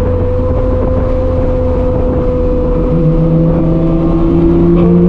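BMW M4 F82's twin-turbo straight-six through a straight-piped exhaust, droning loudly at a steady engine speed while cruising.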